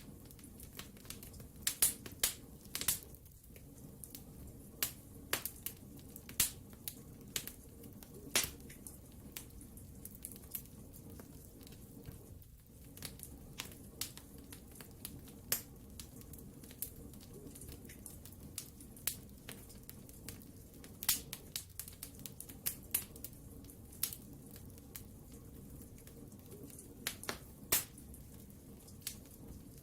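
Wood fire burning in a fireplace: a low steady rumble of flame under sharp, irregular crackles and pops from the burning logs, some clustered, some a few seconds apart.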